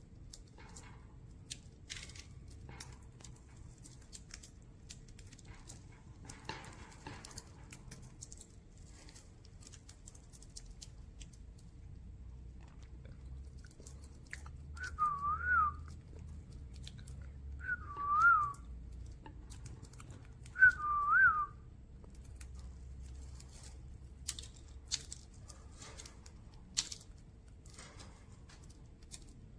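Three short whistles a few seconds apart, each wavering up and down in pitch, with faint scattered clicks between them.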